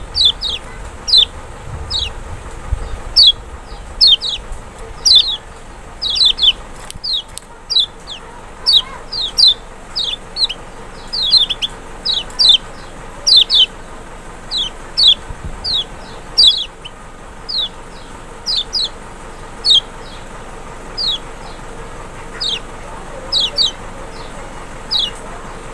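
Kecial (lemon-bellied white-eye) calling: short, sharp downward-sliding chirps, singly or in quick pairs and triplets, repeating about once or twice a second.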